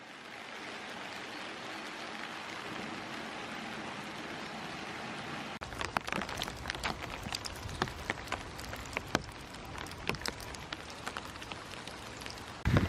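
Rain falling with a steady hiss; from about halfway through, drops tap irregularly and sharply close by.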